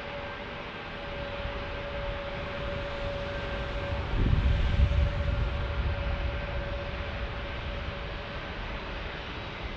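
Airbus A321neo jet airliner passing, its engines giving a steady whine over a broad rush, with a swell of low rumble about four seconds in. It is fairly quiet for a jet, called one that "doesn't even make a noise".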